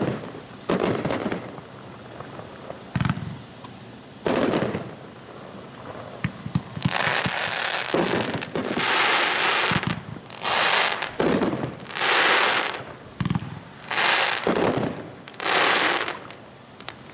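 Consumer firework cake firing shot after shot, heard from a distance: scattered sharp reports, then from about seven seconds in a run of hissing bursts about a second long, roughly one every second and a half.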